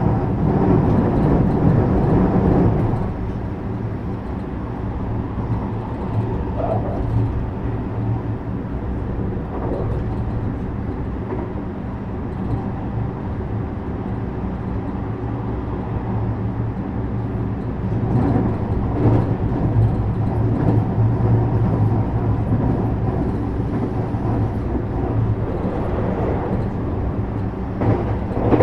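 JR West 321 series electric multiple unit running at speed, heard inside the car: a steady motor and gear hum over wheel-on-rail noise. It grows louder for the first few seconds and again for a stretch about two-thirds of the way through.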